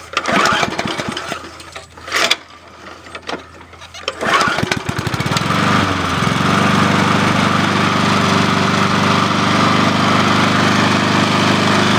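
Briggs & Stratton push-mower engine being pull-started on charcoal lighter fluid instead of gasoline: a few short bursts, then it catches about four seconds in and settles into steady running.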